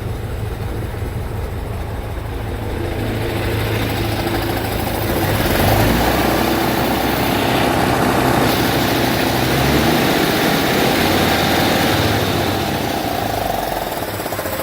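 MAN 16.192 4x4 tipper truck's six-cylinder diesel engine running, climbing in speed and loudness over a few seconds and then held high and steady, with a whine on top.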